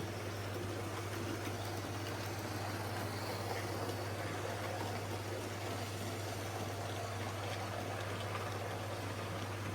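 Model train running around the layout track: a steady, even rushing rumble of wheels and motor over a constant low hum.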